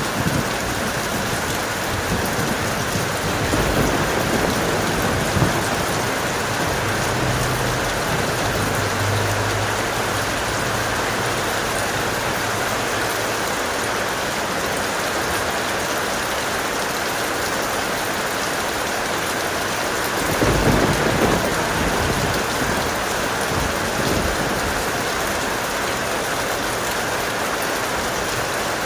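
Steady heavy rain falling, with thunder rumbling low at the start and a louder roll of thunder about two-thirds of the way through.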